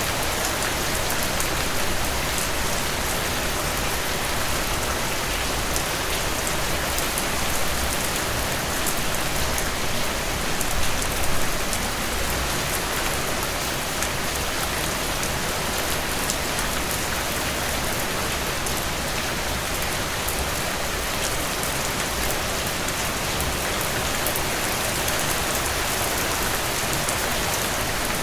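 Heavy rain pouring steadily, a dense hiss of drops hitting surfaces with fine patter on top, briefly louder about eleven seconds in.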